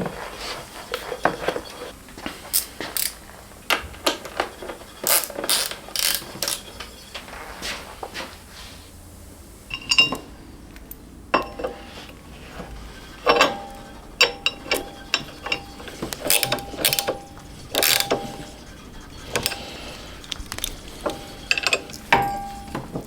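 Hand tools working on a motorcycle being reassembled: a run of irregular metallic clicks, knocks and clinks, some ringing briefly, with ratchet-like clicking among them.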